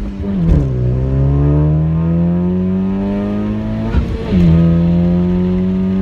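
Honda Civic Type R FK8's turbocharged 2.0-litre four-cylinder, fitted with an HKS downpipe, midpipe and exhaust, accelerating through the gears, heard from inside the cabin. Revs climb, drop at an upshift about half a second in, climb again, and drop at a second upshift about four seconds in.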